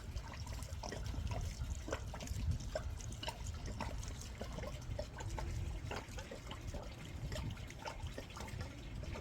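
Water trickling and lapping, with many small irregular drips and splashes over a steady low rumble.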